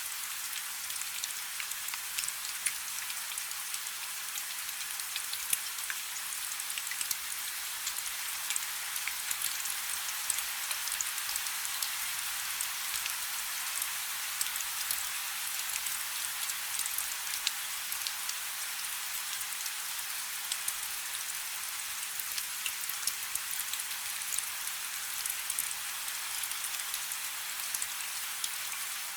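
Steady rain falling on a river: an even hiss with many small, sharp drop ticks scattered through it.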